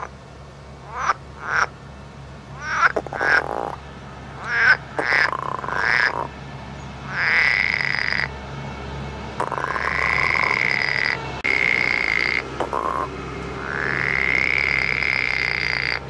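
Green water frogs croaking through paired vocal sacs: a quick string of short croaks, then longer drawn-out croaks of a second or more each.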